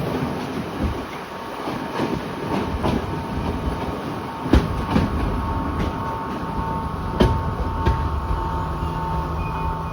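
Class S10 diesel-electric train running over the rails with a clickety-clack of wheels on rail joints and two louder knocks partway through. A steady tone sets in from about the middle.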